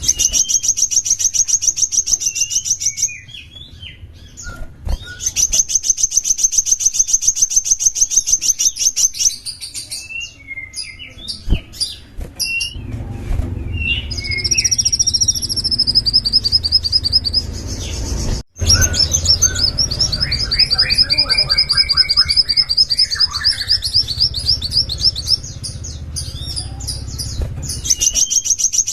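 Small songbird singing in long, very fast high trills that last a few seconds each and repeat, broken up by short chirps and whistled notes. A faint low hum runs underneath.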